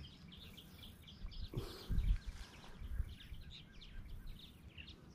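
Faint outdoor ambience of small birds chirping over and over, with a few low bumps about two seconds in.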